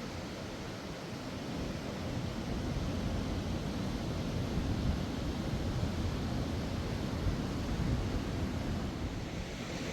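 Steady rushing of a mountain river's flowing water, an even wash of noise without breaks.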